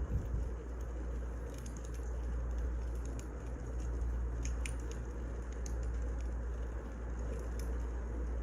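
Wood fire crackling: irregular small sharp pops and snaps over a steady low rumble and hiss.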